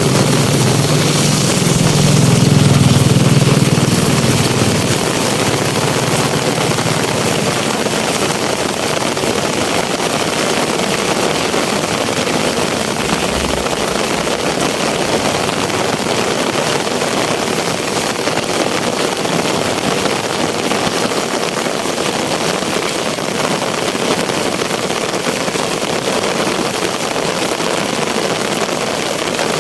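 Heavy rain pouring steadily, an even hiss. A low rumble over the first several seconds fades away.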